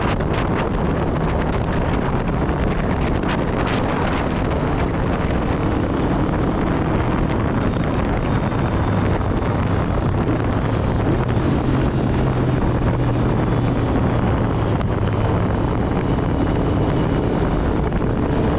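Wind buffeting the microphone of a moving motorcycle, with the Aprilia Tuono V4 Factory's V4 engine running steadily underneath.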